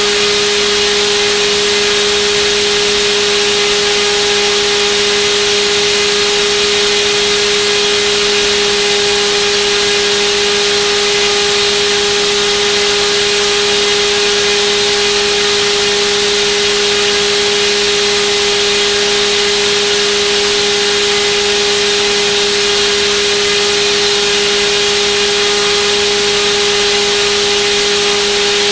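Turnigy D2826/10 1400kV brushless outrunner motor spinning a propeller at a constant throttle on a thrust test: a steady, unchanging whine over the rush of the prop's air.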